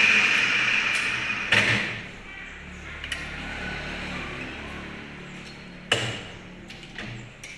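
A hissing scrape of rubbing dies away over the first two seconds, then a few sharp knocks of hard objects, spaced out, with the loudest about six seconds in.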